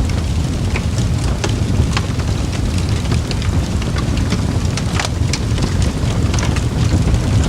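Campfire burning, with a steady low rumble and frequent sharp crackles and pops; one louder snap comes about five seconds in.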